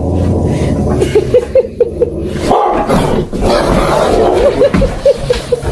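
A dog giving quick, short, high yips, about five a second, in two runs with a noisier stretch between them.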